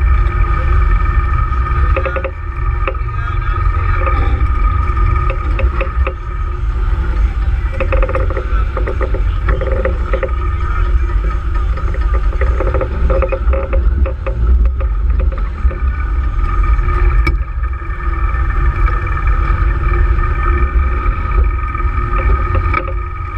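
Wind buffeting the microphone in a 15–20 knot breeze, a steady heavy rumble, with a continuous hum of several held tones underneath and occasional small knocks.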